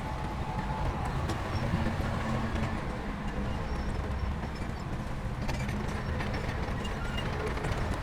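Heavy diesel machinery running steadily with a low rumble and scattered small clanks.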